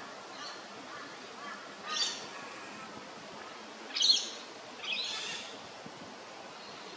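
Birds calling: short, harsh, high calls about two, four and five seconds in, the one at four seconds loudest, with fainter calls before them.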